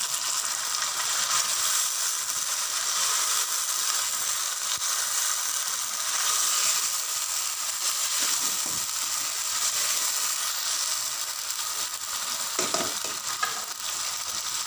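Beef pieces and browned onions sizzling steadily in hot oil in a non-stick wok as they are stirred, with a few scrapes of the stirring utensil against the pan in the second half.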